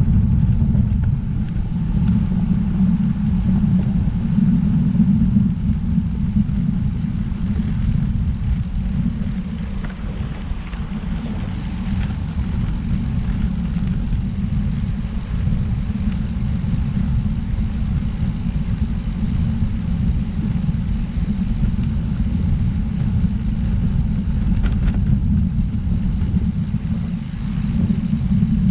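Wind buffeting the microphone of a camera on a moving road bike: a steady, loud, deep rumble with little sound above it.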